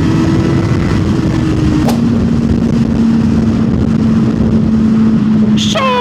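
Honda CBR600RR inline-four engine running at a steady cruise under a constant rush of wind noise. About two seconds in, a click comes with a gear change and the engine pitch drops to a lower steady note.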